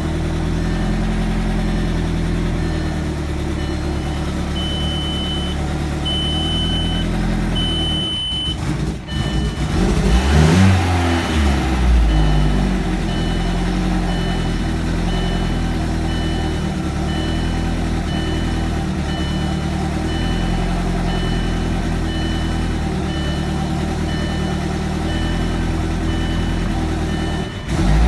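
Turbocharged 1.8-litre four-cylinder (AEB) engine idling steadily, briefly revved up and back down about ten seconds in. A high electronic beep from the car repeats evenly throughout.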